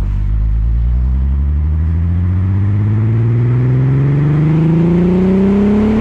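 Skoda Superb's 3.6 FSI VR6 engine through a Gestec cat-back exhaust at full throttle, its note rising steadily as revs climb through one gear.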